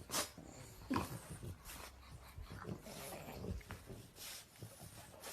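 Small sounds from a dog: short whines and scuffling, with two sharp clicks in the first second.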